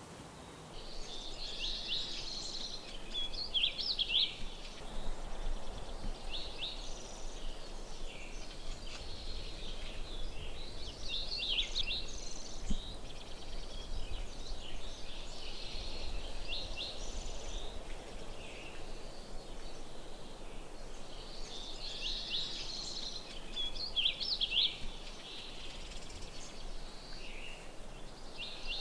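Wild songbirds singing, with short bright phrases repeated every few seconds, over a faint low rumble.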